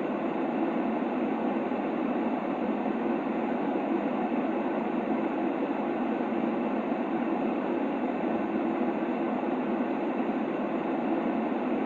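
Steady sleep-aid noise for a baby, a deep, even rumble-like hiss heaviest in the low-middle range and without any change or rhythm.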